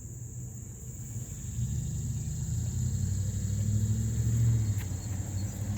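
A vehicle engine's low rumble, building up about a second and a half in and staying loud, over a steady high-pitched chirring of insects.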